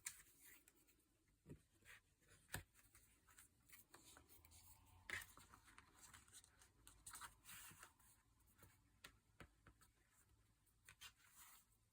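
Faint rustling and scraping of paper, with a few sharp light taps scattered through, as a small handmade paper notebook and its closure are handled.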